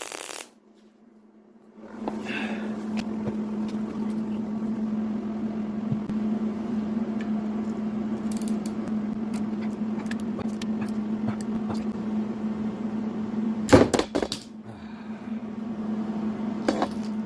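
Electric workshop tool running with a steady hum, used to free a broken bolt; about two seconds in it starts, and near the end there is a brief loud clatter before it settles again.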